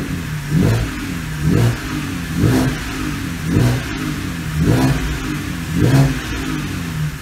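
BMW N52B25 2.5-litre inline-six blipped six times from idle, about once a second, each rev rising and falling back to a steady idle. This is its first run after MILVS valve-lift shims were fitted to the Valvetronic valvetrain, and it runs cleanly with no bad noises.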